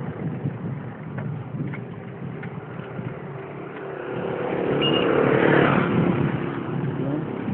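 A motor vehicle passing by: its engine grows louder from about halfway in, is loudest around five seconds in, then fades, over a steady rumble of road and wind noise.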